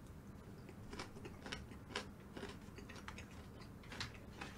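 Faint chewing of a mouthful of gimbap: scattered soft mouth clicks and small crunches at an irregular pace.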